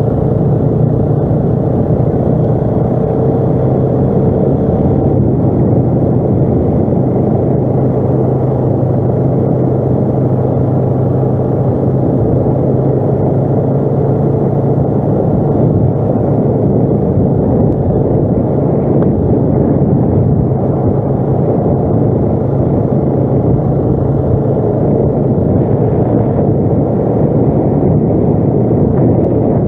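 ATV engine running steadily under way, a continuous loud drone that holds an even pitch throughout.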